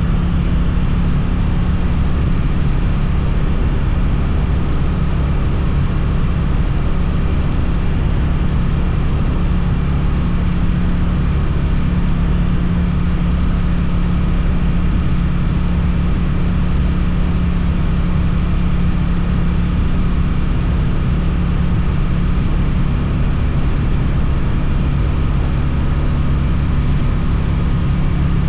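Suzuki motorcycle engine with an Akrapovič exhaust, running at an even engine speed, as when cruising at a steady pace.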